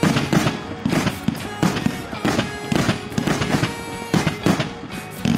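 Aerial firework sky shots bursting, with repeated sharp bangs and crackle, over background music.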